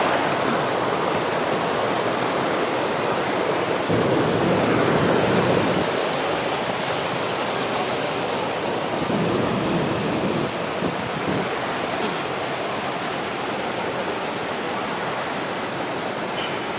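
Rushing water: a steady, fairly loud rush of falling and flowing water that swells a little about four seconds in and again around ten seconds in.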